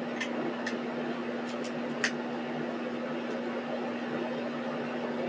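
A steady mechanical hum holding one low tone, with a few short clicks in the first two seconds.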